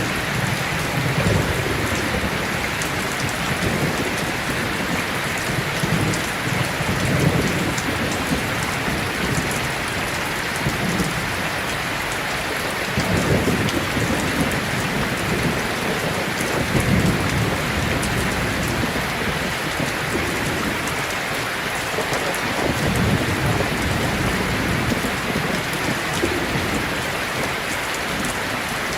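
Heavy rain pouring steadily, with low rolls of thunder swelling and fading several times underneath.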